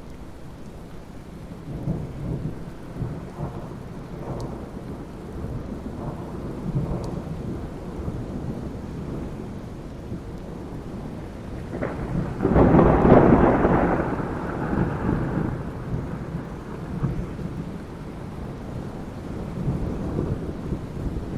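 Steady rain with rolling thunder rumbling low underneath, swelling and fading. A little past halfway a louder thunderclap breaks in and rolls on for about two seconds before settling back into the rumble.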